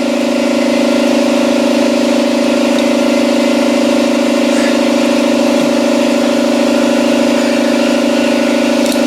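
An engine or motor running steadily, a loud constant hum that holds the same pitch throughout.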